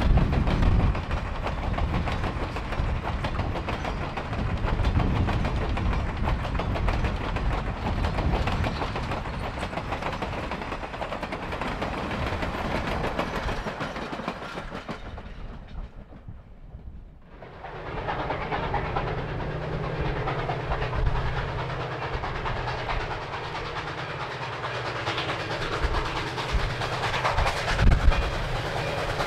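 Passenger railroad cars rolling past close by, wheels clicking and rumbling over the rail joints. About halfway through the sound drops away briefly. A more distant approaching train follows, with a steady low hum and a few louder knocks near the end.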